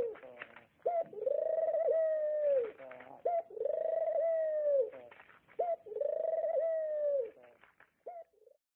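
A bird calling over and over, about every two and a half seconds: each call is a short note followed by a long, steady note. Three full calls, then a last short note near the end before it goes quiet.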